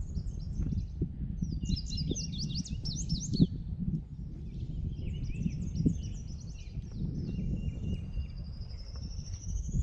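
Small birds singing: quick chirps and several rising trills, clustered about two seconds in and again near the end. Under them runs a steady low rumbling noise, louder than the birds, with a few brief knocks.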